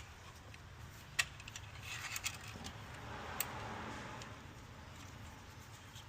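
Hand tools and small metal parts being handled: several sharp clicks and clinks, the loudest about a second in and a quick cluster about two seconds in, with a brief soft rustle around three seconds. No engine is running.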